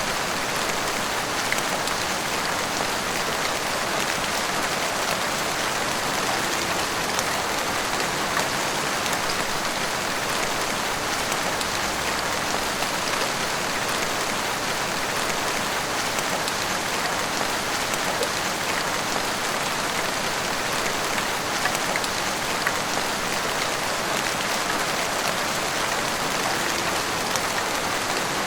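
Heavy rain falling steadily, pouring on rooftops and the street, with scattered individual drop splashes.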